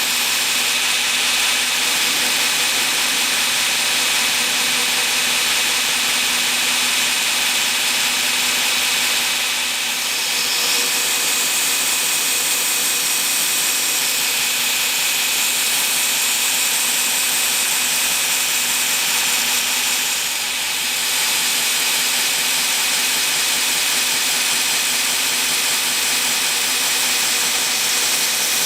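A grinder running steadily as knife handle scales, G10 liner material with desert ironwood, are ground to shape, with slight dips in the sound about a third and two thirds of the way through.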